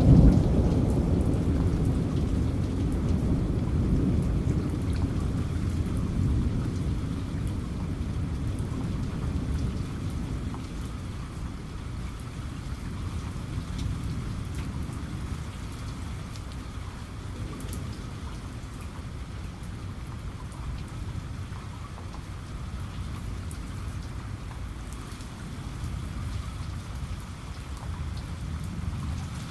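Steady rain with a rolling thunder rumble that is loudest at the start and fades away over the first several seconds, leaving the even hiss and patter of rain.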